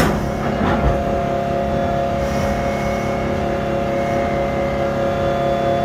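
Amusement-park train's locomotive engine running steadily, a hum of several fixed tones over a low rumble, with two short knocks in the first second.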